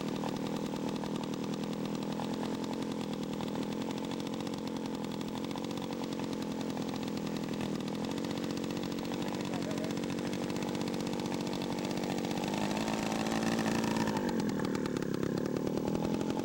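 Radio-controlled scale model airplane's engine running in flight, a steady engine note whose pitch shifts up and down over the last few seconds.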